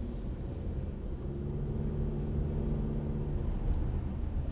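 Car engine and road rumble heard from inside the cabin as the car gathers speed from a junction, a low steady hum with a faint engine tone.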